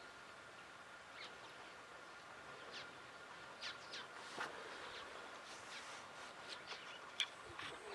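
Wild birds calling now and then: short, sharp calls over a faint, steady outdoor background, more frequent in the second half.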